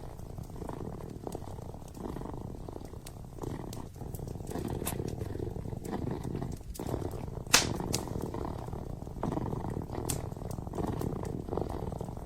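Kitten purring steadily, with a wood fire crackling: scattered sharp pops, the loudest about seven and a half seconds in.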